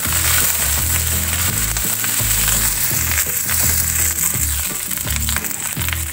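Fried rice sizzling in a stainless steel wok while a wooden spatula stirs and scrapes it, with a steady hiss and frequent short scraping clicks.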